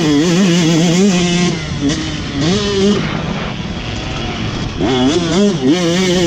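Motocross bike's engine heard on board, revving up and down with the throttle. About two seconds in it drops off throttle and runs quieter for a couple of seconds, then revs up again near the end.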